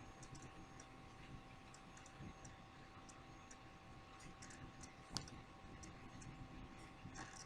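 Near silence: room tone with a faint steady tone and scattered small clicks, one sharper click about five seconds in.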